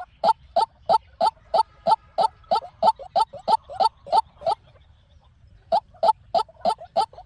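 White-breasted waterhen calling: a fast series of short, harsh notes, about three a second. It breaks off for about a second near the end, then carries on.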